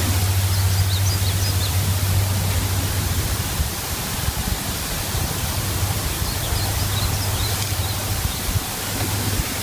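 Steady outdoor hiss with a low hum beneath it, strongest in the first few seconds. Faint high chirps come twice, early and again late.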